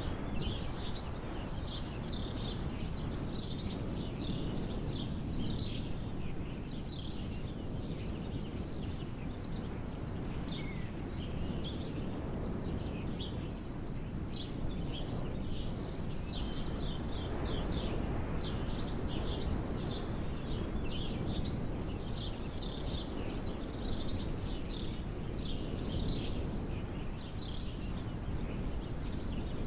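Many birds chirping and calling in quick, overlapping short notes over a steady low rumble of background noise.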